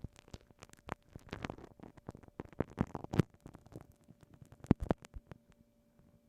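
A glue stick being pressed and rubbed on a binaural microphone, making irregular sticky crackles and clicks that thin out near the end.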